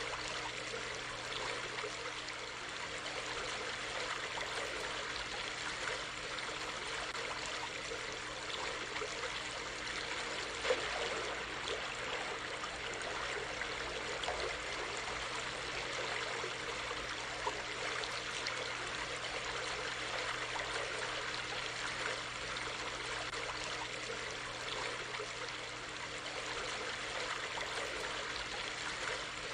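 Steady flowing water of a small stream or creek, running and trickling continuously.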